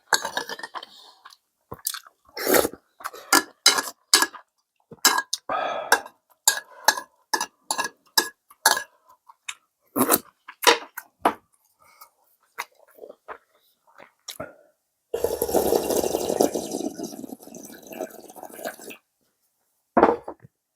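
A person eating ramen and rice: chewing and mouth noises with short clicks of utensils against the bowl, then a denser noisy stretch of about four seconds about fifteen seconds in.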